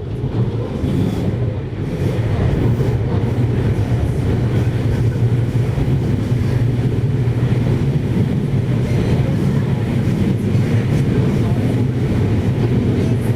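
JR 733 series electric multiple unit running between stations: a steady, loud low rumble of the train at speed, unchanging throughout.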